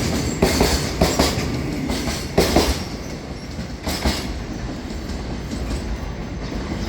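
Freight container wagons rolling past over rail joints. Their wheels give sharp clickety-clack beats in pairs, the last about four seconds in, and then a steady rolling rumble that slowly fades.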